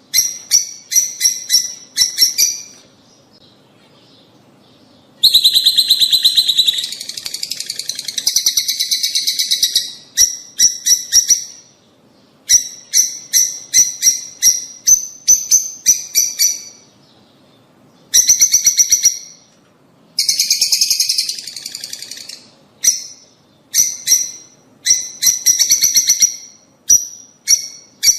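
Lovebirds (rosy-faced and Fischer's) chattering: rapid strings of shrill chirps in bursts with short pauses between, swelling twice into a dense, continuous squawking chatter.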